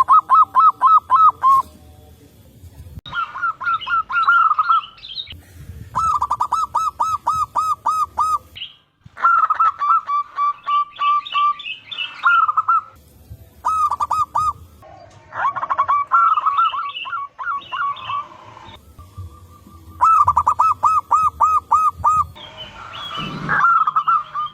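Zebra doves (perkutut) calling in repeated bouts of quick rolling coos, a run of rapid even notes lasting a second or two and then a short pause. Several birds answer one another, so the bouts sometimes overlap. Thinner, higher chirps sound over several of the bouts.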